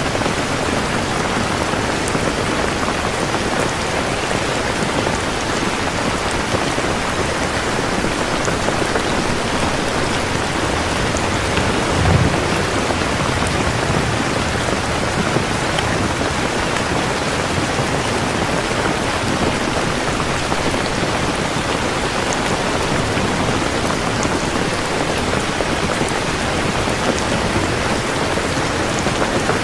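Steady heavy rain falling. About twelve seconds in there is a short, low rumble of thunder.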